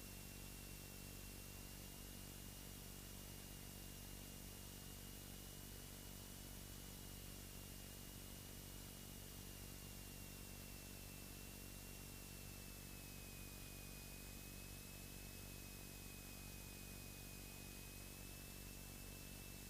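Faint, steady hiss and low hum of a light aircraft's cockpit audio in a Beechcraft Sundowner, with a thin high whine that drifts slightly in pitch.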